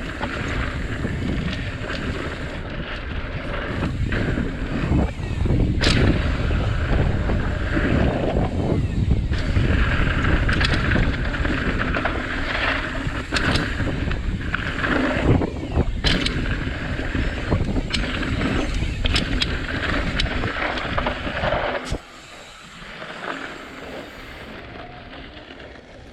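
A Santa Cruz Tallboy mountain bike riding a rough trail: wind buffets the microphone, the tyres rumble over dirt, and the bike clatters with many sharp knocks and rattles over rocks. About 22 seconds in, the noise drops off suddenly to a much quieter hush.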